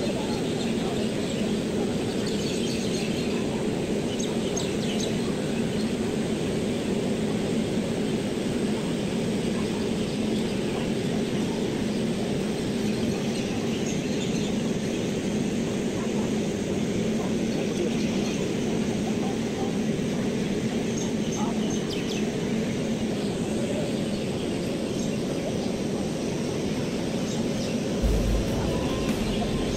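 Steady low mechanical drone from the standing train, with birds chirping faintly over it. A couple of dull bumps near the end.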